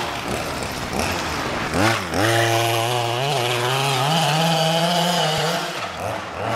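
26cc two-stroke petrol engine of a 1:5 scale RC desert buggy revving: a quick rise in pitch about two seconds in, then held at high revs for about three seconds with the pitch wavering, falling back near the end.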